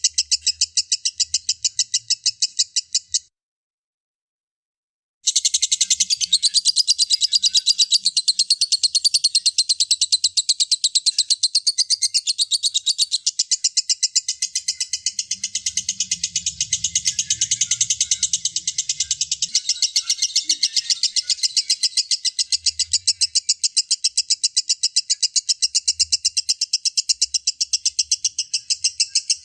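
Lovebird ngekek: a long, very fast chattering trill held without pause. It drops out completely for about two seconds near the start, then resumes.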